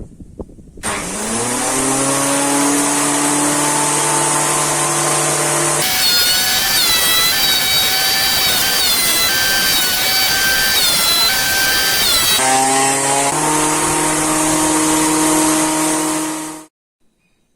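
Electric wood planer spinning up and running, then cutting a pitch-pine board for about six seconds with a louder, rougher sound, before running free again. It cuts off abruptly shortly before the end.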